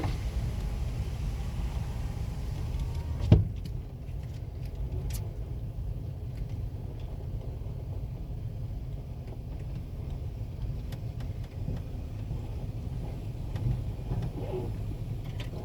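Car engine idling, heard as a steady low rumble from inside the cabin. A single sharp thump comes about three seconds in.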